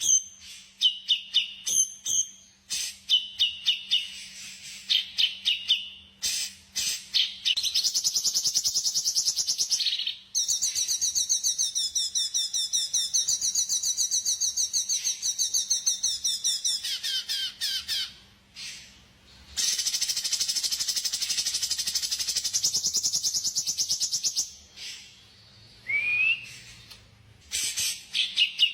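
Songbird singing: runs of sharp high chirps, then long, fast trills of rapidly repeated notes, broken by short pauses, before the chirps return near the end.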